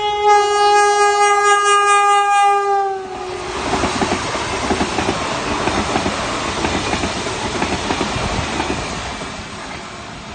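Train horn sounding one long single-note blast that dips slightly in pitch as it ends, followed by a train passing with steady rumble and wheel clatter over the rails that fades slowly toward the end.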